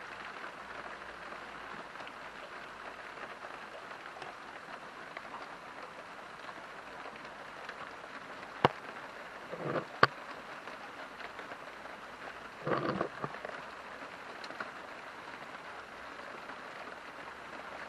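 Steady rain falling, an even hiss. Two sharp clicks come about 9 and 10 seconds in, and short louder bursts come just before the second click and again about 13 seconds in.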